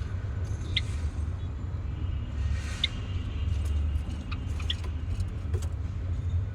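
A few short, high chirps from Java sparrows in an aviary, spaced a second or two apart, over a steady low rumble.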